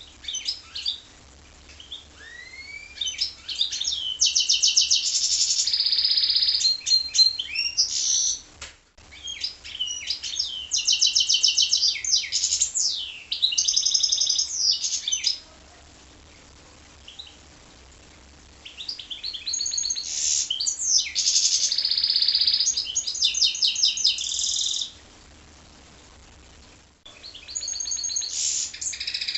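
Goldfinch × canary hybrid singing: long phrases of fast trills, rolls and twittering, slurred notes, four bouts of song separated by pauses of a second or two.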